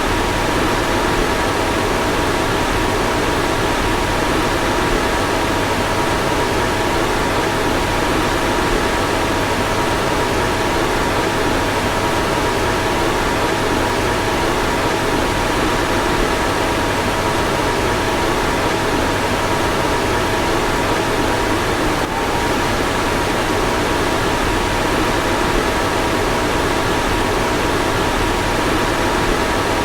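Car fan running steadily: an even whooshing blow with a faint steady hum of two held tones, and a brief small hitch about two-thirds of the way in.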